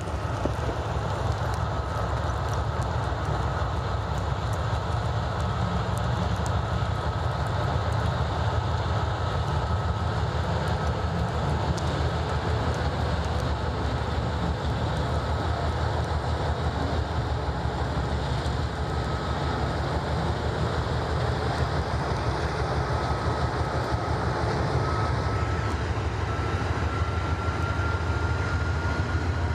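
Train running on the track with a steady low rumble throughout; a faint high tone rises slightly in pitch near the end.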